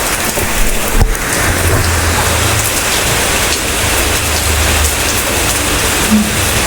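Heavy rain falling steadily. A low rumble joins in about a second and a half in and fades out a few seconds later, and there is a single sharp click just before it.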